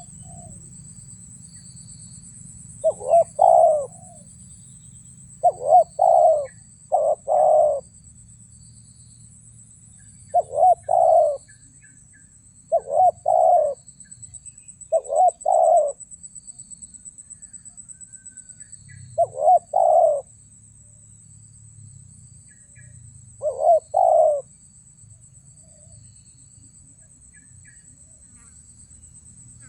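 Spotted dove (terkukur) cooing: eight short coo phrases of two or three notes each, repeated every two to four seconds, with a longer gap near the middle.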